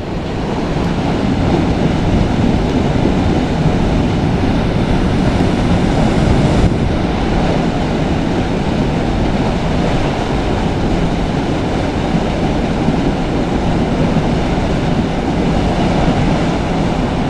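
Steady rush of a flowing river, an even noise with no breaks.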